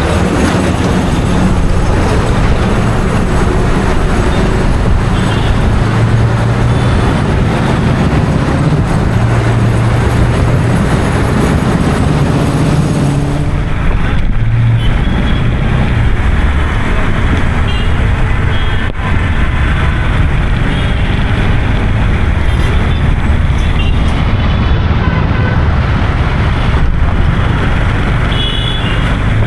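Steady road traffic noise with a vehicle engine's low hum.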